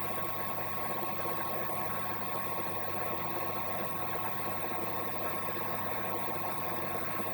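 Suzuki Wagon R's engine idling steadily with its climate control running to defrost the car: an even hum with a constant thin whine over it.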